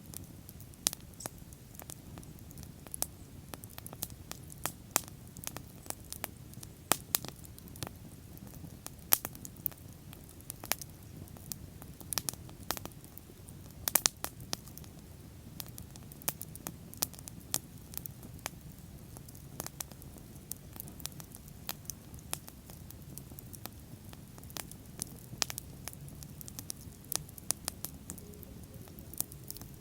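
Wood bonfire burning: frequent, irregular sharp crackles and pops over a low, steady rumble of flames.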